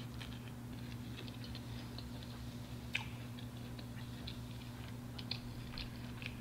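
Chewing a bite of crunchy battered corn dog close to the microphone: scattered small crunching clicks, with one sharper click about three seconds in, over a steady low hum.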